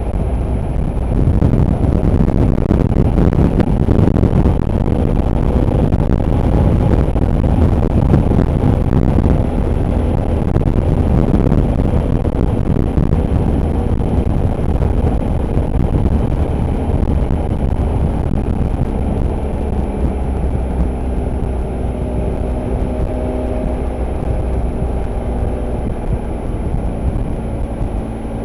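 Motorcycle engine running on the move, with dense rumbling wind-and-road noise. The engine's steady note stands out more clearly in the second half.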